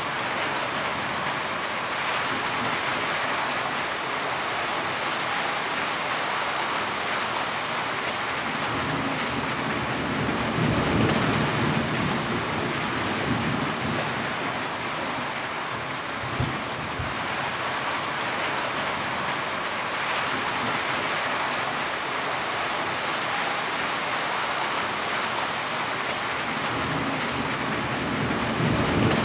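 Heavy rain falling steadily, with low rolls of thunder rumbling about a third of the way in and again near the end.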